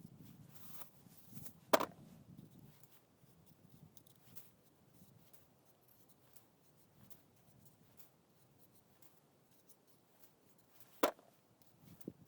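Faint handling sounds with two sharp knocks, one about two seconds in and one near the end.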